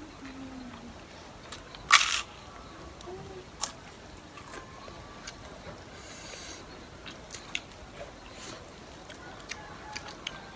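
Close-up eating sounds: scattered small clicks and smacks of chewing, with one louder, short noisy burst about two seconds in.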